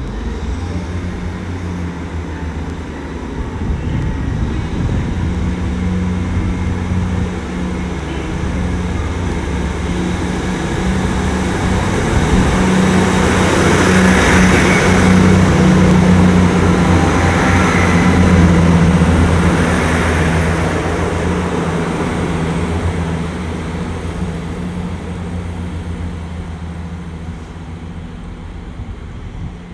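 Diesel multiple unit's underfloor diesel engines running steadily as the train moves through the station. The sound builds to its loudest about halfway through, with added wheel and rail noise, then fades away.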